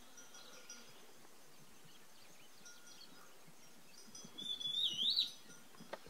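A bird's loud whistled call about four seconds in: a held note that breaks into a quick wavering run and rises at the end, lasting about a second. Fainter high chirps from other birds sound near the start.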